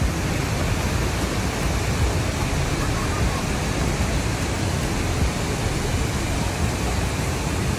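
Steady rushing of a waterfall, a dense, unbroken roar of falling water.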